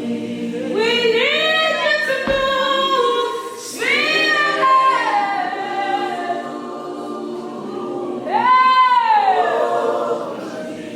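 Group of voices singing a worship song a cappella, holding long notes and sliding between pitches. A brief low thump about two seconds in.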